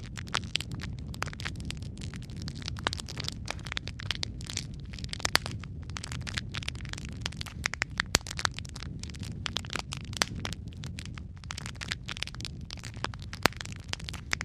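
Wood fire burning in a fireplace: a steady low rumble of flames with dense crackling and frequent sharp pops from the burning logs, a few of them louder.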